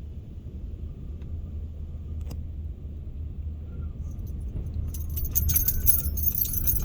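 Dust-storm wind buffeting the van, heard from inside as a steady low rumble. From about five seconds in, rapid metallic jingling like keys joins in and grows louder.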